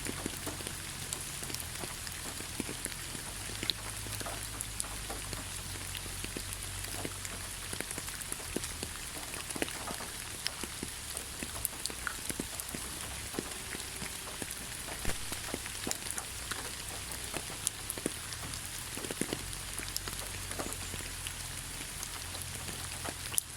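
Steady rain falling in a pine forest: an even hiss with many separate drops ticking close by.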